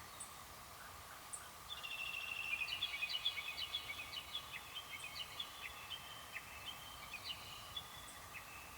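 A bird singing a long, rapid run of short clipped notes, starting about two seconds in, loudest early on and thinning out near the end.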